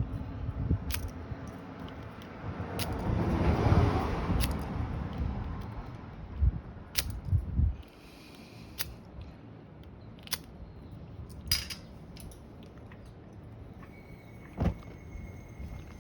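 Scattered sharp clicks and knocks from small metal camping gear being handled, with a rushing noise that swells and fades about three to five seconds in.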